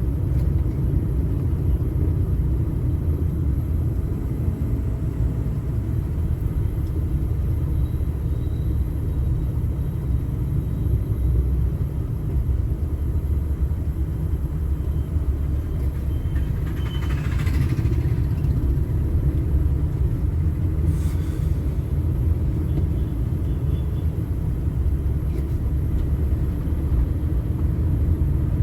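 Steady low rumble of a moving vehicle's engine and tyres on the road, recorded from the vehicle while driving through traffic, with a brief higher-pitched sound about seventeen seconds in.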